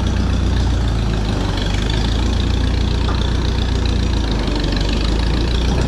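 Farm tractor engine running steadily at low speed with a low, even hum, the tractor in first gear.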